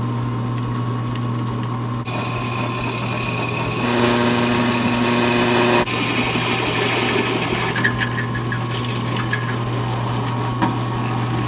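Power drill boring a half-inch hole through a metal bracket, its motor running steadily under load. The pitch and load shift about two seconds in, and it runs louder and higher between about four and six seconds as the bit works through the metal.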